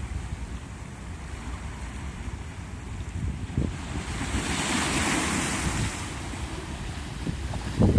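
Sea waves washing onto the shore, with wind buffeting the microphone in a low gusty rumble. About halfway through, a wave surges in with a rising hiss that fades again a couple of seconds later.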